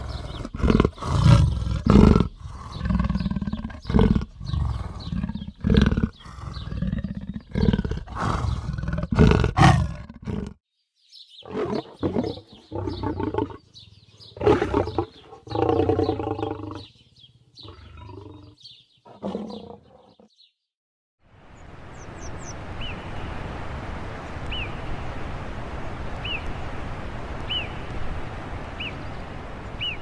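Big cats growling: a leopard gives a run of short, loud growls. After a break a lion follows with deeper, pitched growls and roars. After a brief silence, a steady outdoor hiss begins with faint high chirps about once a second.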